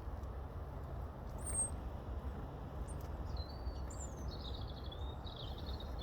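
A small songbird calling: a single thin high note about a second and a half in, then a run of quick, high twittering notes from about halfway to the end, over a steady low rumble.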